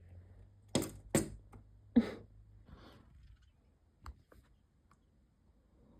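Bird striking the window glass: three sharp knocks within about a second and a half, then a couple of fainter taps about four seconds in.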